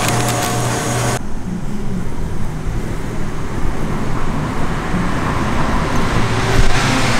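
A steady machine hum cuts off abruptly about a second in, leaving the low rumble of road traffic.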